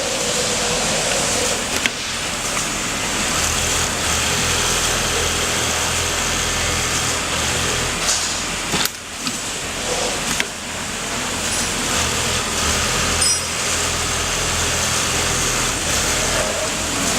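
Automatic pattern sewing machine running steadily while stitching a shirt collar, a constant mechanical noise with a low motor hum that comes and goes, with a short break about nine seconds in.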